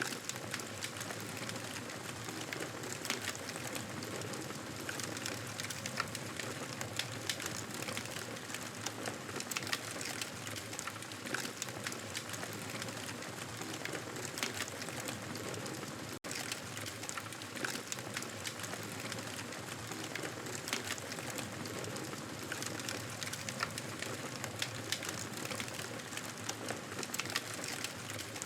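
Wood fire crackling in a fireplace: a steady hiss with frequent small sharp pops and snaps, broken by a split-second dropout a little past halfway.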